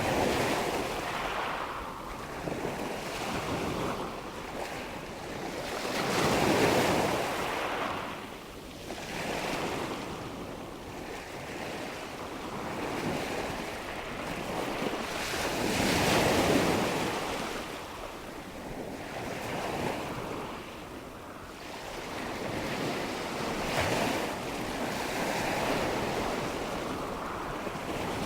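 Nature-sound ambience of wind and water: a wide, rushing noise that swells and ebbs in slow surges every several seconds, with the biggest swells about six and sixteen seconds in.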